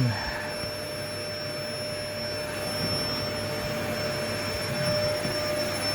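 Bee vacuum running steadily, a constant hiss with a thin high whine, as used to suck honeybees out of a hive cavity.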